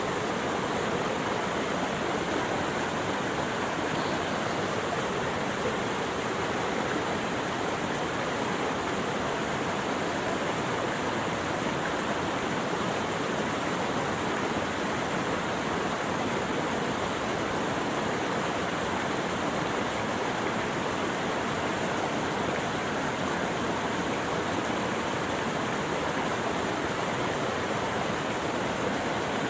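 Steady rushing water, an even, unbroken wash of sound with no birds or other events standing out.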